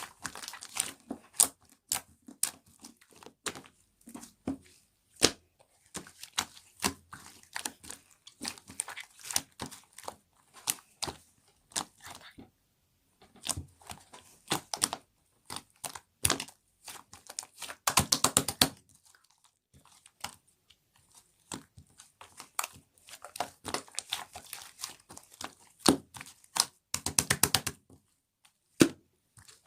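Slime with clay on top being squished and poked by hand, giving a stream of sharp clicks and small pops. Two quick runs of rapid popping stand out, one past the middle and one near the end.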